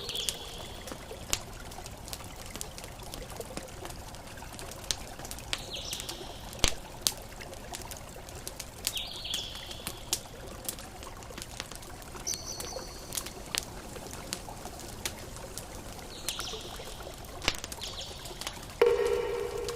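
Campfire crackling, with frequent sharp pops, over a steady wash of ocean waves. A few short high bird calls come through, and a louder, lower-pitched call sounds near the end.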